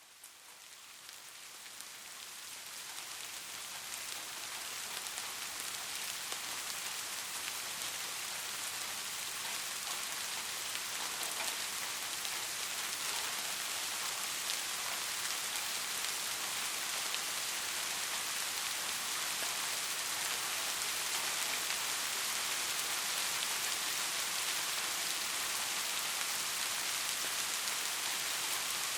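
Steady rain falling, a dense hiss of drops with faint scattered ticks, fading in over the first few seconds and then holding even.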